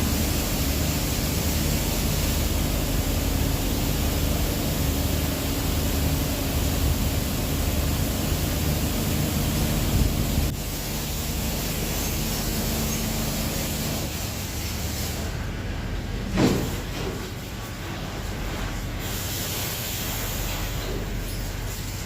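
Automatic car wash running: a steady hiss of spraying water over the hum of the wash machinery, changing character about ten seconds in. A brief louder sound stands out about sixteen seconds in.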